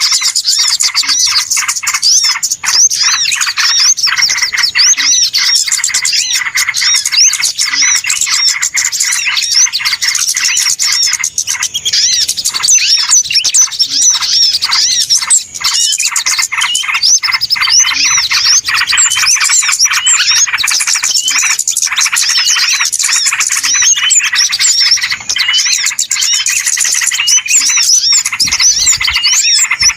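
Dense, continuous chorus of many small birds chirping and twittering over one another, a noisy bird-lure (pikat) recording.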